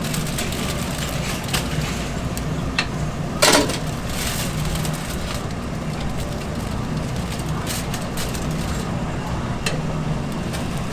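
Kitchen work clatter over a steady low hum: scattered clicks and knocks of utensils and containers, with one louder knock about three and a half seconds in.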